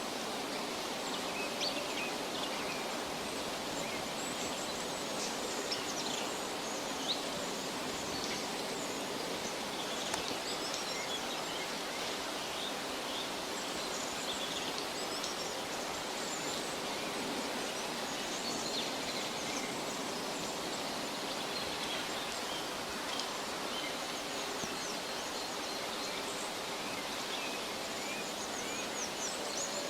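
Forest ambience: a steady hiss with many faint, short bird chirps scattered through it.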